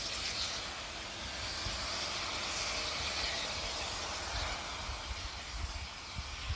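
Steam locomotive hissing steam over a low rumble, the hiss swelling for a couple of seconds in the middle.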